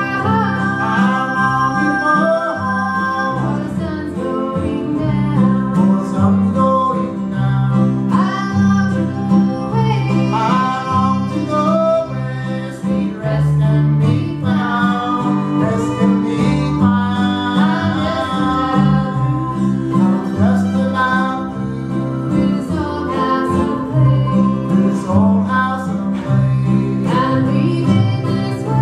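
Old-time string band playing a tune: fiddle and mandolin over guitar and bass, the bass stepping through low notes under the melody.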